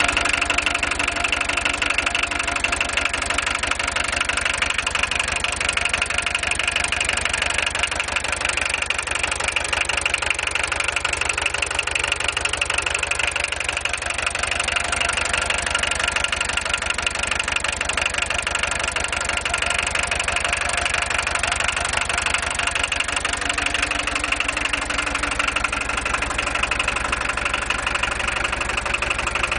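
Volkswagen 1.6 TD turbodiesel engine idling steadily with a fast, even clatter; the owner wonders whether it clatters more than it should.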